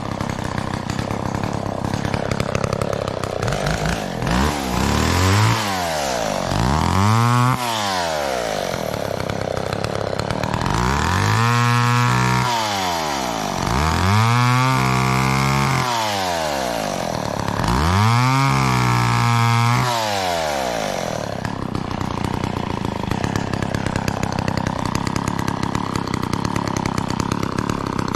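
McCulloch Mac 10-10 two-stroke chainsaw running, revved up and back down about five times, the last three revs held longer, then dropping back to a steady idle.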